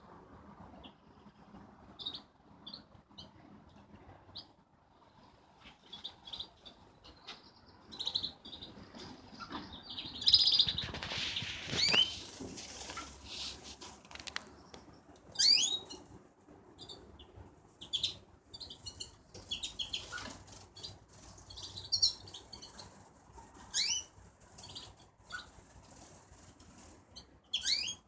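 Wild bird in an aviary, with a burst of wing flapping about ten seconds in and short high chirps. Later come repeated quick calls that fall steeply in pitch, one every two seconds or so.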